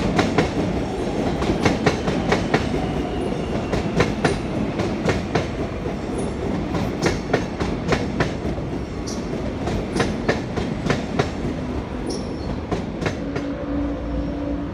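Electric suburban train rolling past, its wheels clicking and clacking irregularly over rail joints and points over a steady rumble. A steady low hum comes in near the end.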